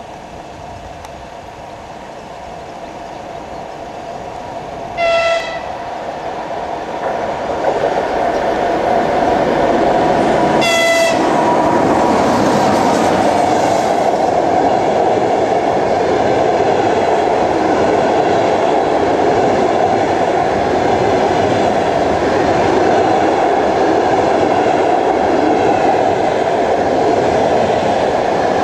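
ChS2t electric locomotive with a passenger train approaching and passing at speed. The rumble grows louder and the locomotive sounds two short horn blasts, about five and eleven seconds in. Then comes the loud, steady rolling noise of the carriages' wheels on the rails as the train runs past.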